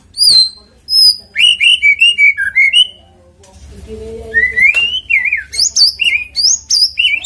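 White-rumped shama (murai batu) singing: a run of quick, loud whistled notes sliding up and down, a short pause about three seconds in, then another fast run of whistles.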